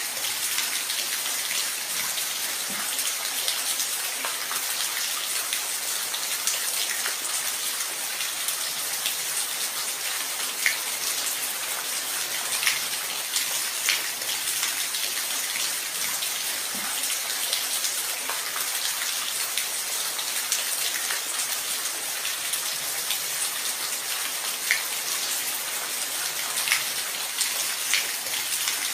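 Steady rain falling on a surface, with the separate ticks of individual drops scattered through it.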